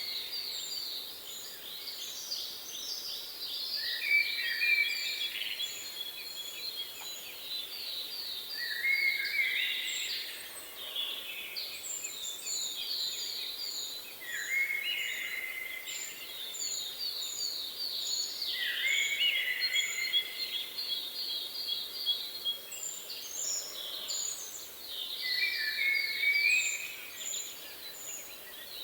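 Several songbirds singing. One repeats a song about every five seconds that climbs into a fast trill, and another gives runs of short, very high, thin notes.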